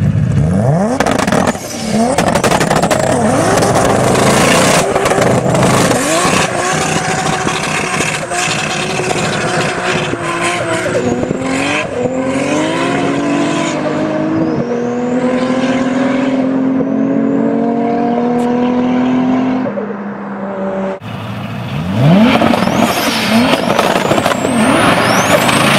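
Turbocharged Toyota Supra Mk4 straight-six engines revving hard while the cars spin their rear tyres in burnouts. Between about 12 and 20 seconds in, an engine climbs in pitch in steps as a car pulls away through the gears. After a short dip about 21 seconds in, loud revving and wheelspin start again.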